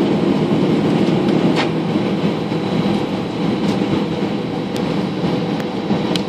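Airbus A320 cabin noise while taxiing: the jet engines' steady hum over a low rolling rumble, with a few faint short ticks.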